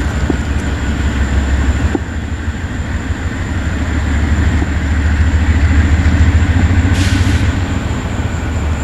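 Freight train rolling past, a steady low rumble of cars on the rails, with a brief hiss about seven seconds in.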